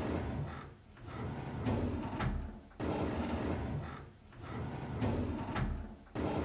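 A drawer sliding open on its runners, repeated about every three and a third seconds: each pull starts suddenly as a rumbling slide and ends with a sharp click.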